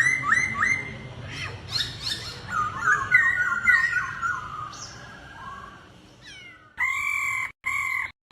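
Laughingthrush singing: a quick run of repeated slurred whistles, then a string of varied whistled phrases. Near the end comes a steady held note that cuts off abruptly twice.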